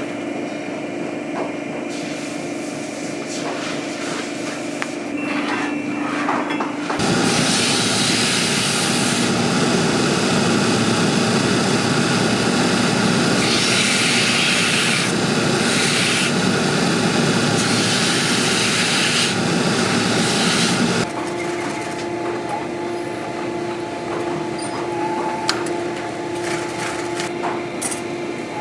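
A motor-driven shop sanding or grinding machine running with a steady hum. From about seven seconds in to about twenty-one seconds, work is pressed against it and a much louder grinding, rubbing noise comes in, surging several times before the machine drops back to its hum.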